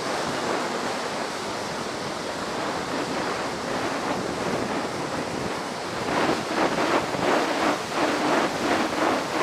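Ocean surf from high post-typhoon waves breaking on the beach, with wind on the microphone. About six seconds in, a louder rhythmic crunching joins at about three strokes a second: running footsteps on sand.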